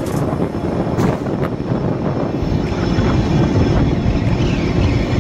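Passenger train running through a rail tunnel: a loud, steady rumble of wheels and air echoing off the tunnel walls, with a couple of short knocks about a second in.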